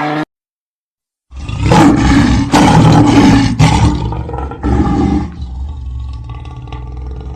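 A large animal roaring: a loud, rough call in several surges lasting about four seconds, then a quieter, drawn-out trailing call.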